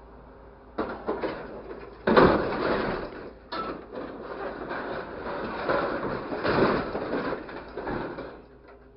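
Irregular clattering and knocking of hard objects, starting about a second in, loudest from about two seconds in, and stopping near the end.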